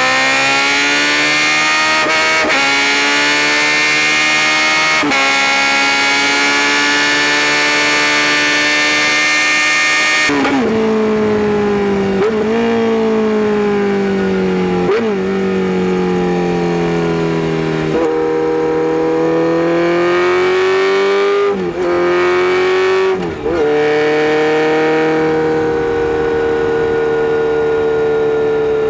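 Kawasaki Z900RS inline-four engine and aftermarket header-and-muffler exhaust on a ride. It pulls up with steadily rising revs for about ten seconds, then the throttle closes and the revs fall in stages, with several short breaks and jumps in pitch at gear changes. Near the end it settles into a steady cruise.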